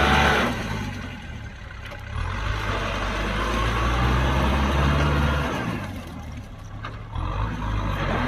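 Kubota M6040SU farm tractor's diesel engine running steadily. It drops back about half a second in, comes up strong again about two seconds in, fades once more about two thirds of the way through and picks up again near the end.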